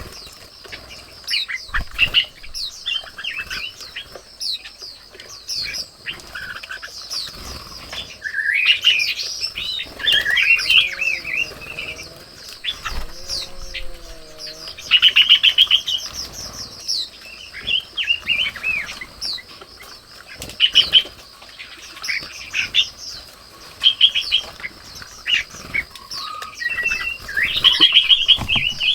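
Garden songbirds chirping and calling in quick, rapid runs of short rising and falling notes, loudest in clusters about a third of the way in, around the middle and near the end. Under them runs a steady high insect drone.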